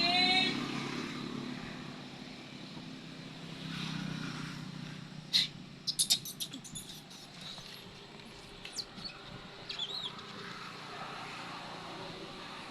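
A high, wavering cry that breaks off about half a second in, most likely the end of a baby monkey's call. Under it runs a steady low motor hum, like passing traffic, with a cluster of sharp clicks about halfway through and a few brief high squeaks later on.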